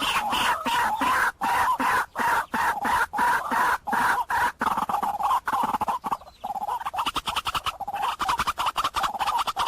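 White-breasted waterhen calling: a rapid, continuous string of harsh croaking 'wak-wak' notes, with a short break about six seconds in.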